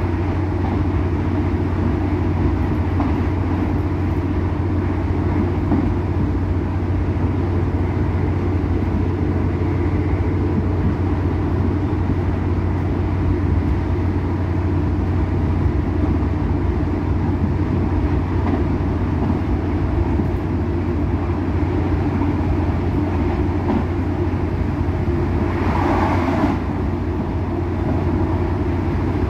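Irish Rail Class 2800 diesel railcar running along the line, heard from inside the carriage: a steady low drone with wheel and track noise. A brief higher-pitched sound comes near the end.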